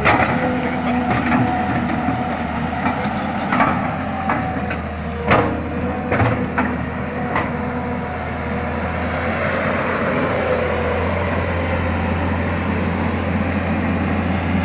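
Excavator's diesel engine running with a steady low drone, with sharp knocks scattered through the first half; the engine grows a little louder and steadier after about ten seconds.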